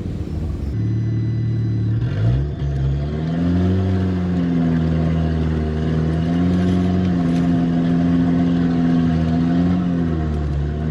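Volvo 740 Turbo's turbocharged four-cylinder engine pulling hard under acceleration. The revs climb about two seconds in, hold high with small rises and dips, then drop back near the end as the throttle is eased.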